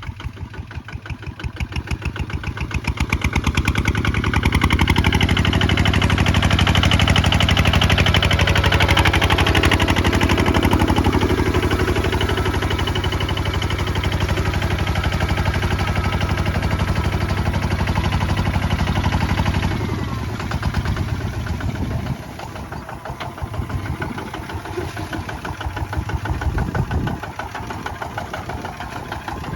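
Kubota ZT155 single-cylinder diesel engine running while plowing. It grows louder over the first five seconds, runs steadily and loud for about fifteen seconds, then drops back about twenty seconds in and runs unevenly with rises and falls.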